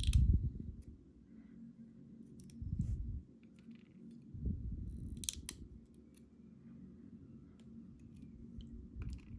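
Small metal clicks and dull handling bumps as pins and springs are worked out of a Schlage Primus Everest lock cylinder during disassembly. They come in a few separate spells: at the start, around three seconds in, around five seconds in and near the end.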